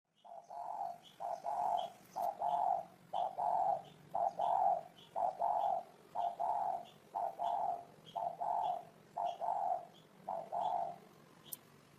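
Spotted dove cooing: about ten paired low coos, each a short note followed by a longer one, in a steady rhythm that stops about eleven seconds in.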